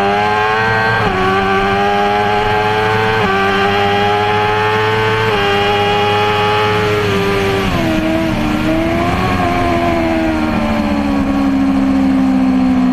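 BMW S1000RR inline-four engine at high revs, heard from onboard: the pitch climbs and drops sharply at three upshifts in the first five seconds. About seven seconds in the pitch falls away, rises briefly, then sinks slowly through the rest as the bike leans through a corner.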